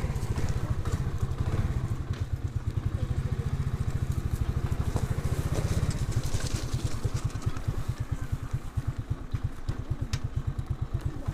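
Alpha moped's single-cylinder four-stroke engine idling with a steady, even putter.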